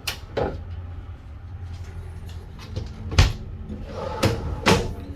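Small kitchen doors being opened and shut: a few short knocks and clunks, the loudest about three seconds in, with two more near the end.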